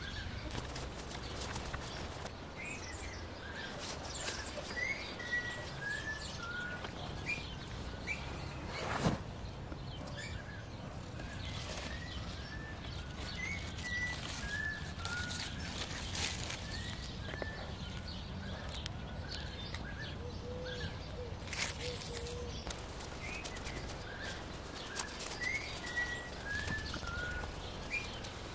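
Woodland birdsong: a small songbird repeats a short phrase of chirps falling in pitch, roughly every ten seconds, over a low steady background rumble. A few sharp snaps or knocks stand out, the loudest about nine seconds in.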